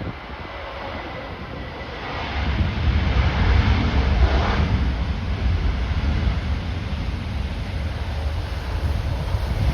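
Jet airliner coming in to land, its engine noise swelling about two seconds in and peaking near the middle, with strong gusty wind buffeting the microphone.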